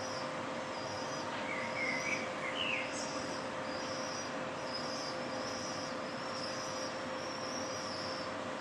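Small birds calling at dusk: a run of short, high chirps repeating about once a second, with a lower call of a few rising notes about one and a half seconds in. Beneath them is a steady city background noise with a constant hum.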